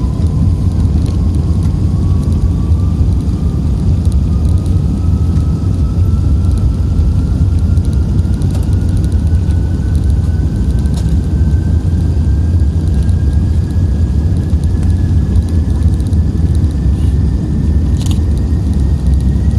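Cabin noise inside an Airbus A380 with its engines running: a loud, steady low rumble, with a faint whine above it that climbs slowly and steadily in pitch.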